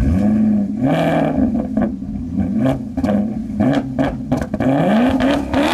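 V8 sports car engine revved in repeated throttle blips, the pitch rising and falling about once a second.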